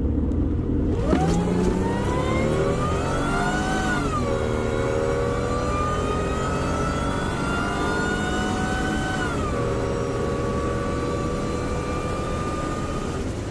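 Supercharged 3800 V6 of a Pontiac Fiero pulling hard at full throttle on a drag-strip pass. From the launch about a second in, the engine's pitch climbs, falls at an automatic upshift about four seconds in, climbs again, falls at a second upshift about nine and a half seconds in, then holds steady.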